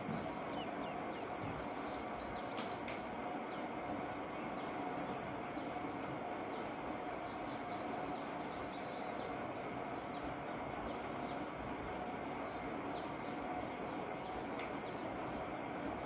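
Soft, high bird chirps in quick runs, about a second in and again around seven to ten seconds in, over a steady hum.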